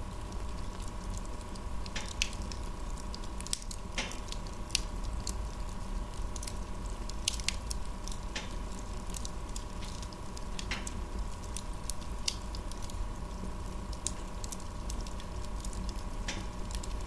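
Wood fire burning, with irregular sharp crackles and pops.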